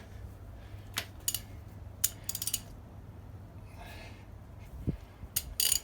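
Socket ratchet clicking in short, irregular runs as a rusted exhaust manifold nut is worked slowly back and forth to free it.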